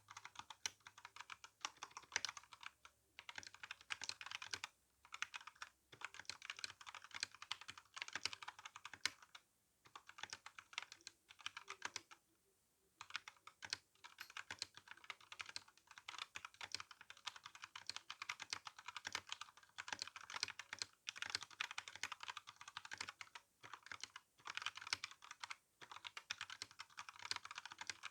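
Fast typing on an RK61 mechanical keyboard with brown switches and GSA keycaps: a steady stream of rapid key clacks, broken by a few brief pauses.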